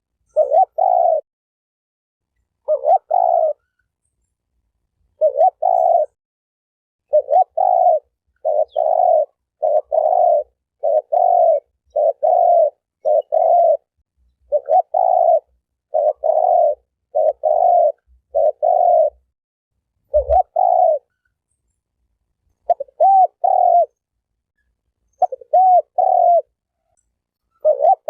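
Spotted dove (terkukur) cooing over and over: short coo notes in runs of two and three, with gaps of about a second between groups. It is a recorded call used to lure wild doves. A faint low thump comes about two-thirds of the way in.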